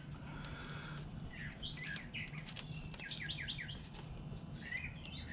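Birds chirping in the background, short falling notes with a quick run of several chirps about three seconds in, over a faint steady low hum.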